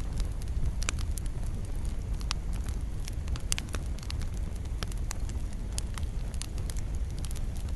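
Wood campfire burning: a steady low rumble of flame with frequent sharp, irregular crackles and pops.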